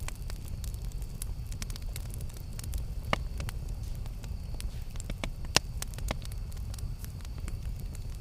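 Campfire crackling: a steady low rumble of burning with scattered sharp pops and snaps, two of them louder, about three and five and a half seconds in.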